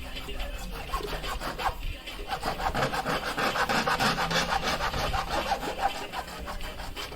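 Hand saw cutting, a fast run of rasping strokes that builds about two seconds in and is strongest in the middle.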